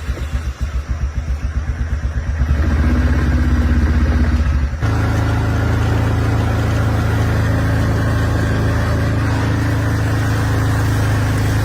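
Four-wheeler (ATV) engine, just started, idling with a pulsing beat, revving up after about two and a half seconds, then changing to a steady, higher running note about five seconds in.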